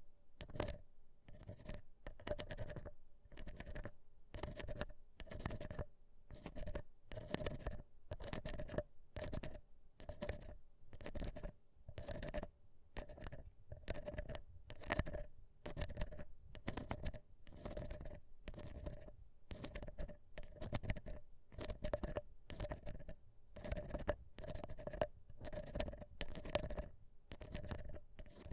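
Ear cleaning with an ear pick: a steady run of close, dry scratching strokes, about one a second.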